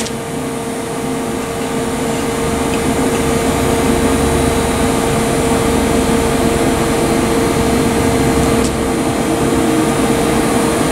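Steady mechanical hum: a constant mid-pitched tone over an even whir, with a low rumble that swells through the middle.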